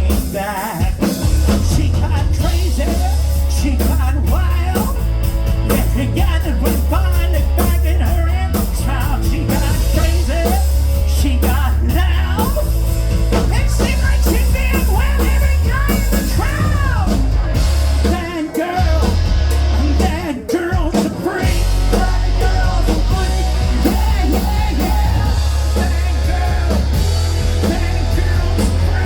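Rock band playing live with a singer: heavy bass, drums and sung vocals, the band briefly dropping out twice about two-thirds of the way through before coming back in.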